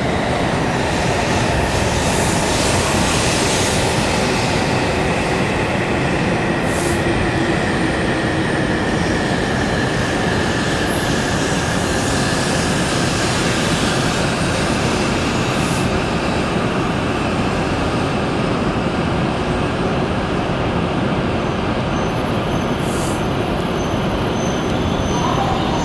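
E7 series Shinkansen electric train running alongside the platform: a steady, loud rumble of wheels and running noise, with a faint whine that slowly falls in pitch.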